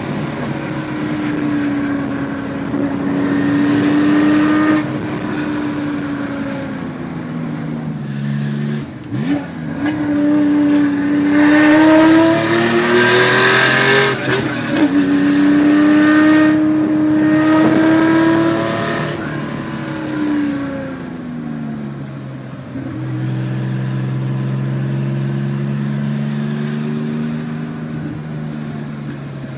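Porsche 911 2.4 S air-cooled flat-six through a SCART exhaust, driven through the gears. The engine note holds steady, drops at a shift about eight seconds in, then climbs under hard acceleration to its loudest around twelve to fourteen seconds. After another shift it holds, falls away as the throttle is lifted around twenty seconds in, and settles to lower, steady running near the end.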